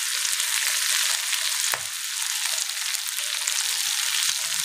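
Onion, capsicum and spring onion sizzling steadily in hot oil in a frying pan, with a few faint clicks among the sizzle.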